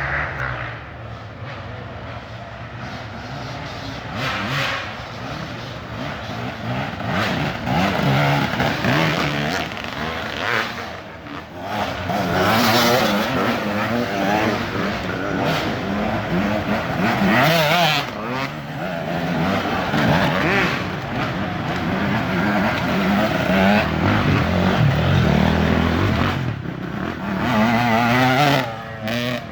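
Dirt bike engines revving hard, with the pitch rising and falling over and over as the throttle is opened and closed.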